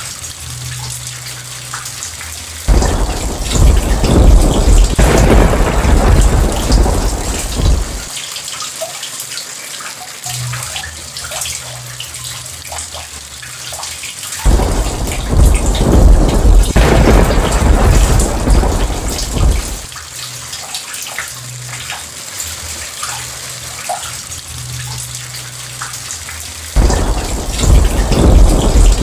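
Steady heavy rain with rolls of thunder: three loud, deep rumbles, each breaking in suddenly and dying away over about five seconds, roughly twelve seconds apart.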